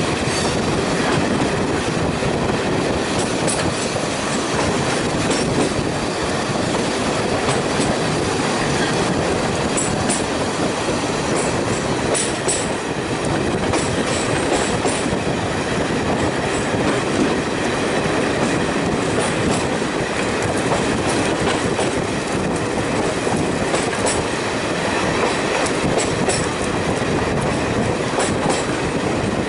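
Heritage diesel multiple unit running along the line, heard from a carriage window: a loud, steady rumble of engine and wheels on rail, with scattered sharp clicks.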